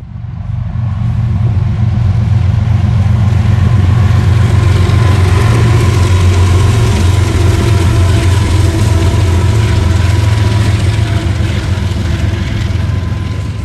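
Diesel locomotives of a freight train passing close by, their engines running hard with a deep steady hum and a rushing clatter over the rails. The sound swells over the first couple of seconds and eases off near the end.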